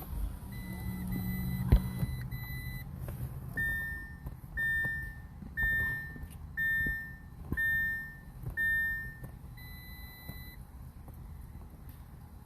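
A series of electronic beeps: a steady tone, then six short beeps about one a second, then one more tone. There is a low rumble in the first few seconds and a single sharp knock about a second and a half in.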